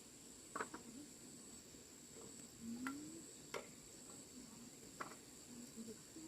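Crickets or other insects trilling as a steady high-pitched drone, with a few faint clicks and faint low sounds.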